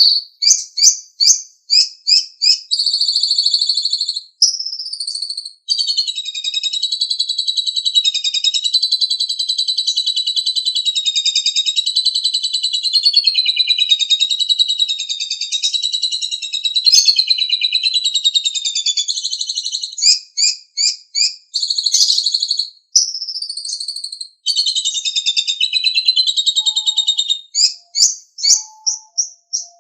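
Asian pied starling (jalak suren) singing. It gives runs of quick, sharp chirps, then a long, rapidly pulsing warble held for about fourteen seconds. Near the end come more chirp runs and a second, shorter warbled phrase.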